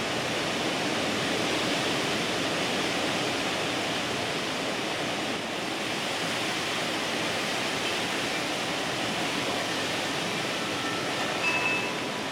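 Strong gusty tropical-storm wind blowing as a steady rushing noise. Near the end a wind chime rings briefly.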